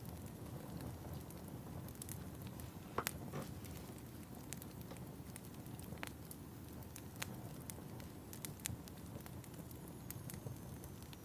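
Fireplace fire burning: a steady low rumble with irregular sharp crackles and pops, the loudest about three seconds in.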